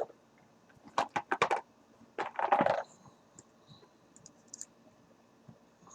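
A vape mod and its battery being handled: a quick run of small clicks of hard metal and plastic parts, then a short rattle about two seconds in, then a few faint ticks.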